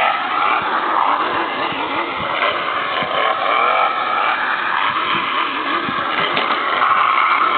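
New Bright Grave Digger radio-controlled monster truck driving, its motor running steadily with the pitch sweeping up and down again and again.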